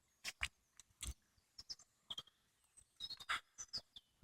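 Footsteps on an outdoor path, a series of short irregular steps, with a few faint short bird chirps.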